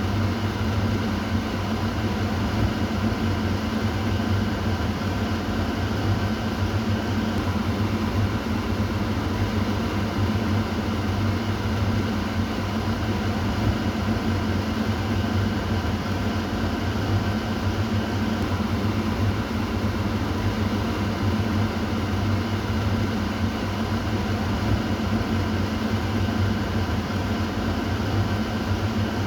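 Kitchen exhaust fan running steadily: an even rushing of air over a low motor hum, unchanging throughout.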